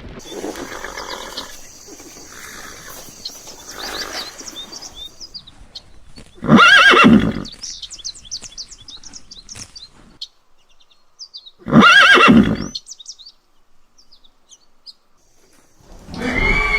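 Horse whinnying: two loud, quavering neighs about a second long, some five seconds apart, with a third starting right at the end.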